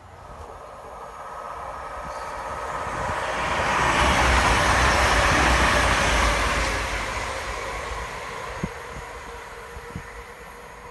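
CrossCountry Voyager diesel multiple unit passing at speed. The rush of its wheels on the rails and its underfloor diesel engines builds to a peak about four to six seconds in, then fades as the train runs away.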